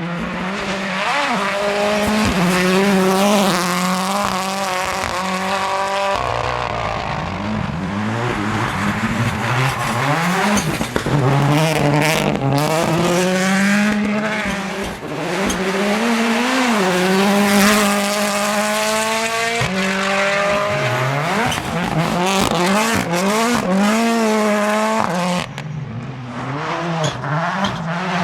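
Ford Puma Rally1's turbocharged 1.6-litre three-cylinder hybrid engine driven hard, its note climbing through the revs and dropping again over and over with gear changes and lifts. Sharp cracks come now and then, most of them around the middle.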